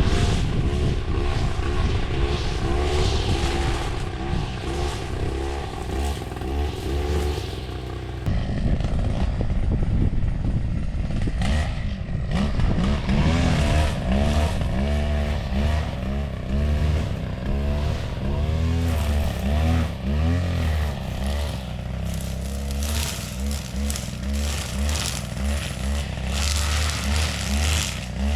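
Small petrol engine of a grass-cutting machine running, its speed rising and falling again and again as it works, with an abrupt change in the sound about 8 seconds in.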